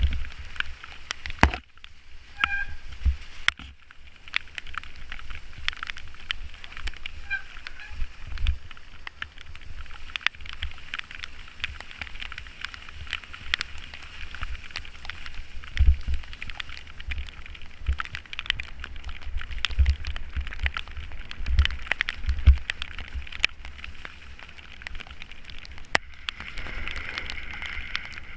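Bicycle riding in the rain: a steady hiss with many small clicks and rattles, and wind thudding on the microphone every second or two.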